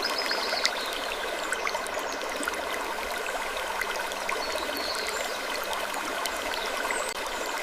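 A steady trickling, water-like ambience full of small clicks and crackles. Short high squeaks come through near the start, about halfway and near the end.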